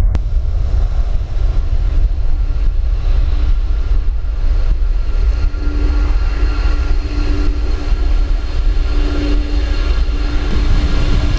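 Jet airliner engines running loud and steady, a rushing roar with whining tones that grow stronger from about halfway through, over a heavy low rumble of wind on the microphone.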